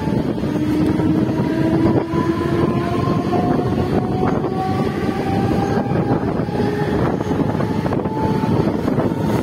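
Electric suburban local train running, heard from its open doorway: a steady rumble of wheels on rail and wind rushing past, with a faint whine that rises slowly in pitch as the train picks up speed.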